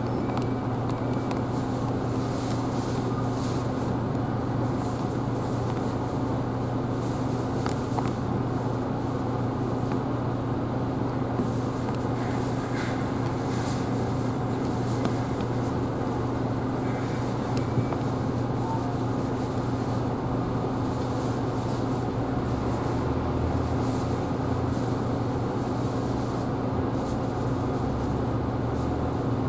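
Isuzu Erga Hybrid city bus running, heard from inside the cabin: a steady low hum with an even noise beneath it, holding level without revving.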